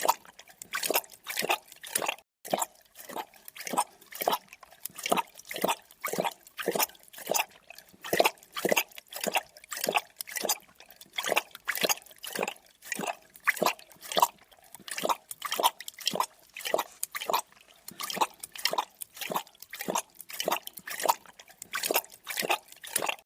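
Creature drinking: wet lapping, slurping strokes repeating about twice a second.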